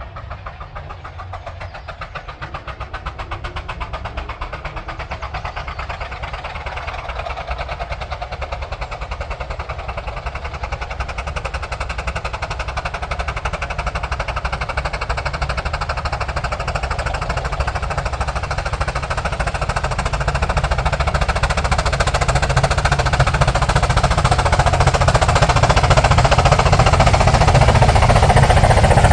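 Miniature steam locomotive working hard with rapid, even exhaust beats, growing steadily louder as it approaches.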